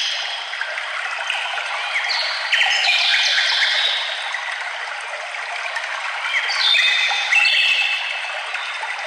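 Songbirds singing over a steady rush of flowing water. There are two song phrases of quick, clear notes, one about two seconds in and the other about six and a half seconds in.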